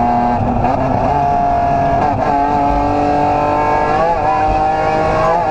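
BMW M3 rally car's engine running hard at speed, heard from inside the cabin. Its pitch climbs, then drops and rises again about two seconds in and once more about four seconds in, as the revs change with shifts and throttle.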